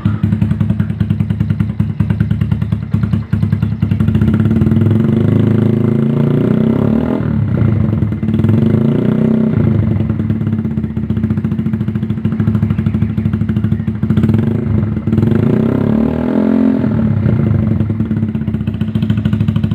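Yamaha Jupiter motorcycle engine running through an aftermarket KOU full-blue exhaust, idling with a steady pulse. The throttle is opened and the revs rise and fall back in swells, first from about a quarter to halfway through and again near three quarters of the way in.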